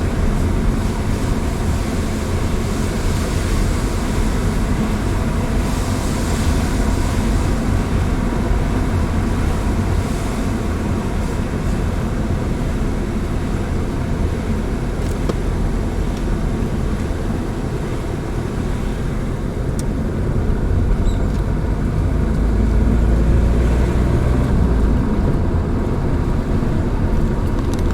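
A car driving, with a steady engine and road rumble. The low rumble grows louder from about two-thirds of the way in.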